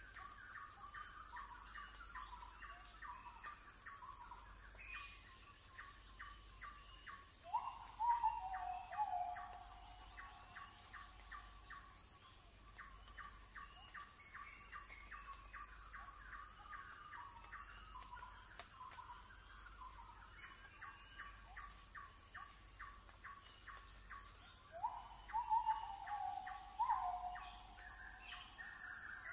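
Birds calling in the open: a rapid run of short repeated chirps throughout, and twice, about 8 seconds in and again near the end, a louder call of several notes stepping downward in pitch. A faint steady high-pitched drone lies under them.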